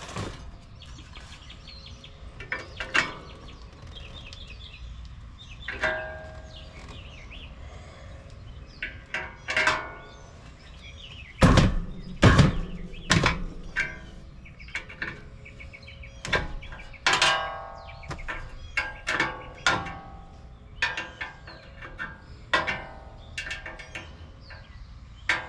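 Irregular metallic clanks and knocks, some with a short ring, as the old condenser fan and motor are worked on to get them off, the loudest knocks coming in a cluster about halfway through.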